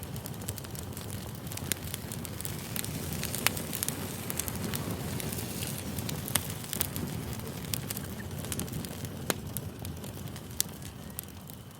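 Campfire burning: a steady low rush of flames with sharp pops and crackles of burning wood scattered through it, easing off slightly near the end.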